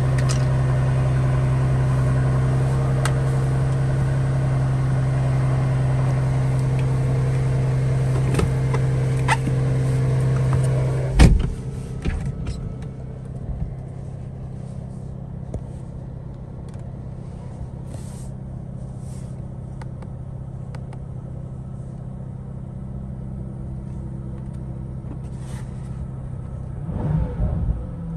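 Mercedes-AMG SL65's twin-turbo V12 idling after a cold start, heard from inside the cabin, with a steady drone. About eleven seconds in there is a short knock, and then the engine note drops and runs noticeably quieter. Some irregular low rumbling comes near the end.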